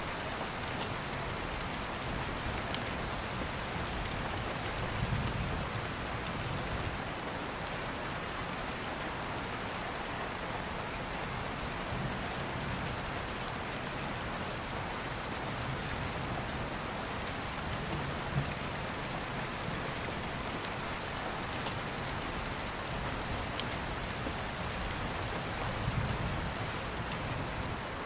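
Steady rain falling, with a few faint low rumbles and occasional sharp ticks.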